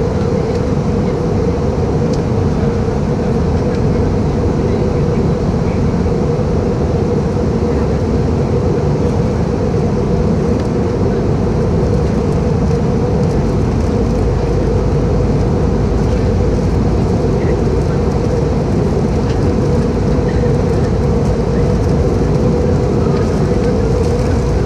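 Steady cabin noise of an Airbus A318 in flight: the drone of its CFM56 engines and rushing airflow, with a constant low hum running through it.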